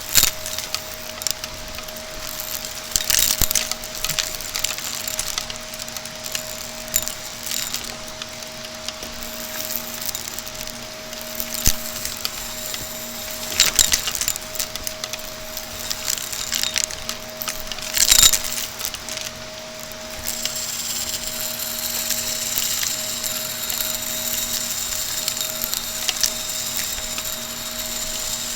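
Shark vacuum cleaner running with a steady hum while it sucks up crunchy debris, with irregular crackling and crunching; the sharpest crunches come around halfway through and again a few seconds later. In the last third the crunches thin out and a steadier, higher airflow hiss takes over.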